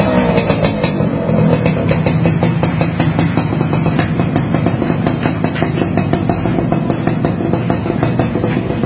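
Yamaha F1ZR single-cylinder two-stroke motorcycle engine idling steadily through a free-flowing aftermarket or hollowed-out exhaust. It gives a crisp, crackling run of rapid exhaust pulses.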